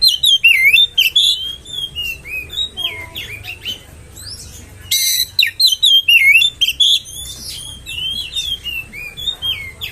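Oriental magpie-robin (kacer) singing a fast, varied song of whistled up-and-down notes, with a burst of harsh rasping notes about five seconds in.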